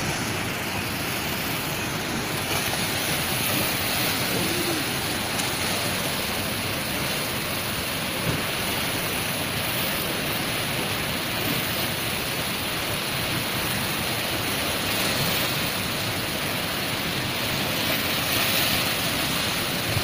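Floodwater rushing, a steady, unbroken roar.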